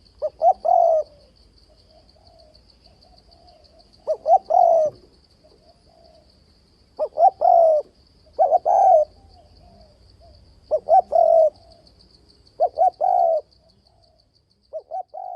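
Spotted dove cooing: six loud phrases a few seconds apart, each of two short notes and a longer, falling coo. A steady, pulsing high insect trill runs behind.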